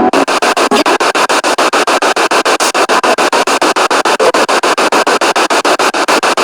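Spirit box sweeping rapidly through radio stations: loud static chopped into even pulses many times a second, with brief snatches of broadcast sound between the cuts.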